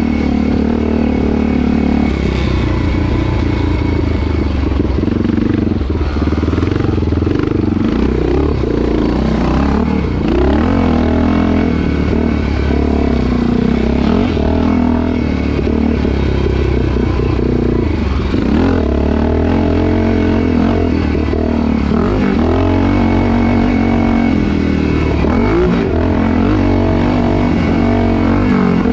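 Motocross motorcycle engine running hard, its pitch rising and falling again and again as the throttle opens and closes through the ride.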